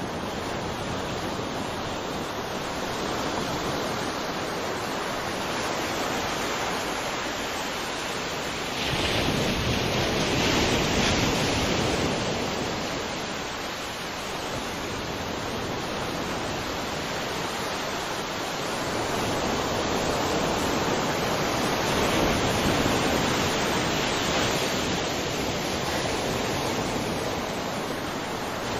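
Sea waves breaking and washing ashore in a continuous rushing surf, with a bigger wave swelling about a third of the way in and again past the middle.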